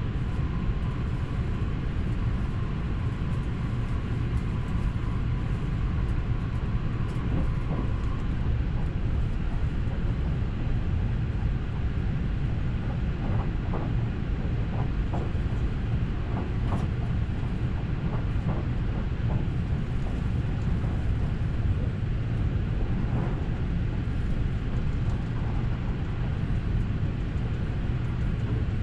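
Running noise of a JR West Haruka limited express electric train at speed, heard from inside the passenger car: a steady low rumble of wheels on rail. A faint high steady tone sounds for the first several seconds, and a few light clicks come in the middle.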